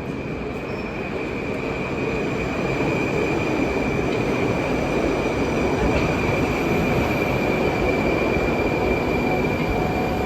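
Moscow Metro train running through a tunnel, heard from inside the car: a rolling rumble grows louder over the first few seconds as the train picks up speed, with a steady high-pitched wheel squeal over it.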